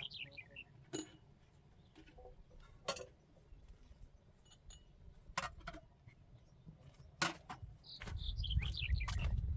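Sharp knocks, one every second or two, with a bird chirping in short falling runs near the start and again near the end. A low rumble comes in about eight seconds in.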